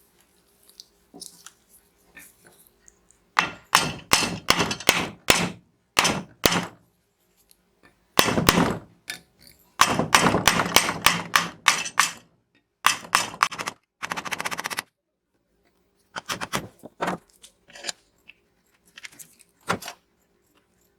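Hand work on a scale model car: several bursts of quick rubbing strokes, with pauses between them.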